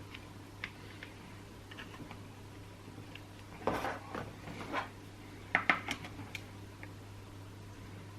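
Small chainsaw parts and tools being handled on a workbench: light clicks, with two short bursts of clinking and clattering around the middle. A steady low hum lies underneath.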